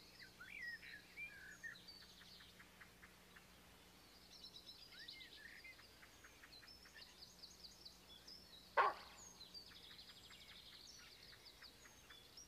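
Faint songbird chirps and quick trills, with one short, louder call about nine seconds in.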